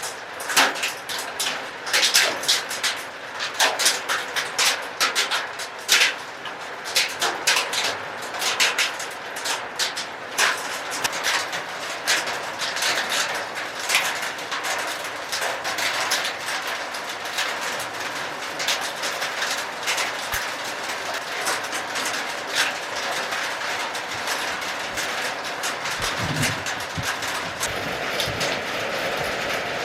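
Hailstones pelting down in a hailstorm: a dense, irregular clatter of countless small impacts. After about the halfway point it thins into a steadier hiss.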